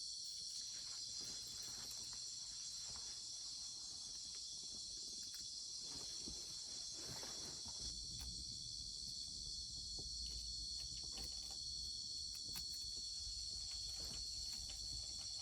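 Crickets chirring in a steady, unbroken chorus, with a few faint clicks underneath.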